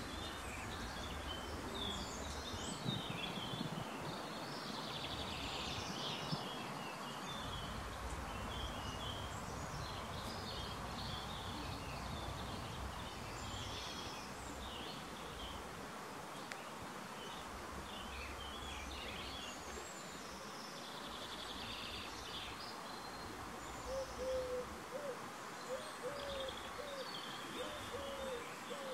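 Garden birdsong: small birds chirping and singing throughout over a steady background hum, and near the end a pigeon cooing in a run of short, low, repeated notes.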